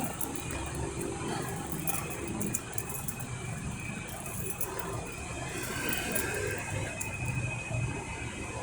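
Road traffic: vehicle engines running steadily, with a faint thin high squeal coming and going.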